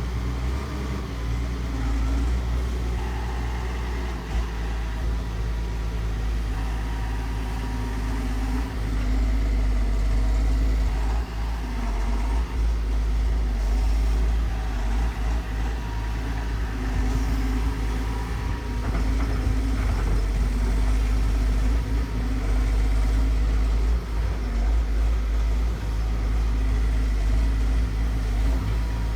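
Diesel engine of a heavy excavator running steadily with a deep rumble, getting a little louder about nine seconds in.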